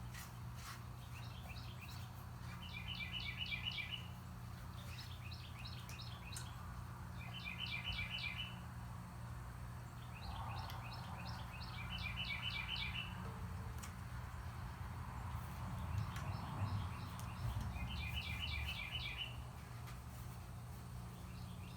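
A songbird singing short trilled phrases of rapid chirps, about six phrases repeated every few seconds, over a steady low hum.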